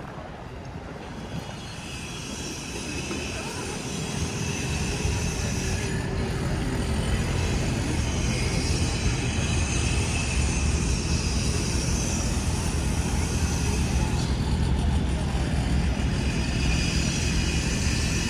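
Low engine rumble that builds up over the first several seconds, then runs steadily.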